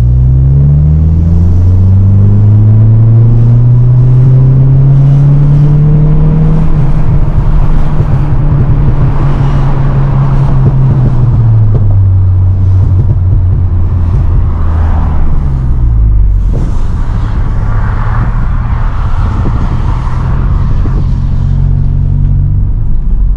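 Mk8 Volkswagen Golf GTI's turbocharged 2.0-litre four-cylinder running through an aftermarket Xforce exhaust and Milltek downpipe: revs climb steadily for several seconds, hold, then drop twice, around the middle and again a few seconds later, before running steady.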